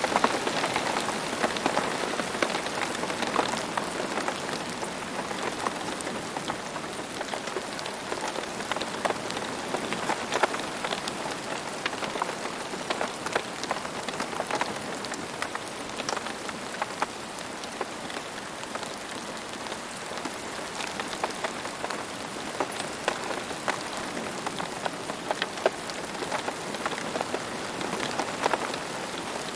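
Steady rain falling on a hard surface, an even patter with many distinct individual drop ticks scattered throughout.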